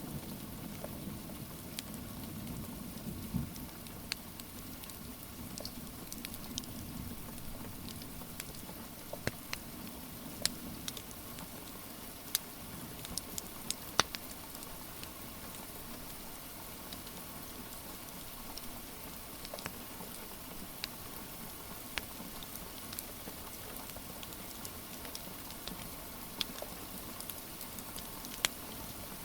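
Steady rain patter mixed with the irregular sharp crackles and pops of a wood fire in a fireplace. A low rumble fades out over the first few seconds.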